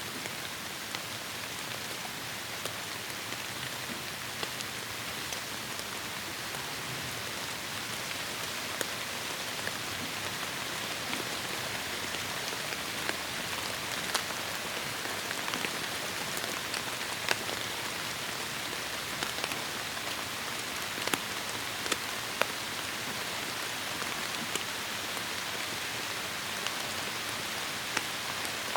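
Heavy rain falling on forest foliage: a steady wash with many individual drops landing close by, now and then as sharper taps.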